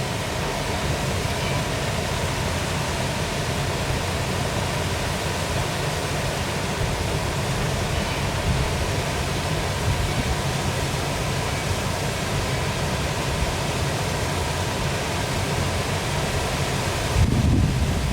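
Waterfall rushing with a steady, even hiss. About a second before the end, wind buffets the microphone with a low rumble.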